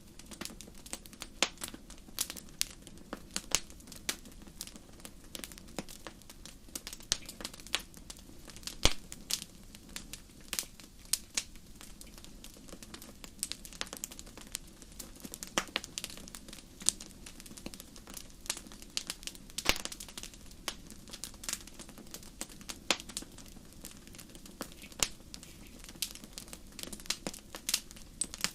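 Wood fire crackling in a fireplace: irregular sharp pops and snaps, several a second, over a soft, steady low rush of the burning.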